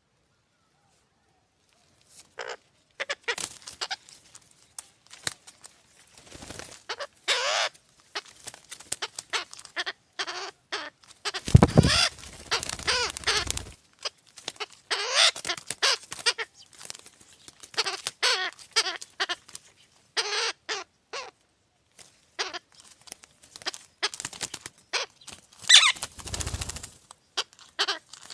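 Young birds squawking over and over in short, harsh calls, starting about two seconds in.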